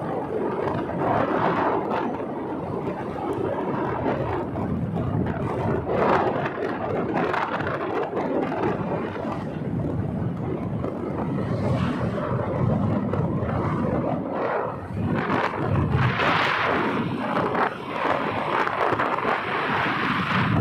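Wind rushing over the microphone of a moving motorbike, with road and vehicle noise, swelling in surges.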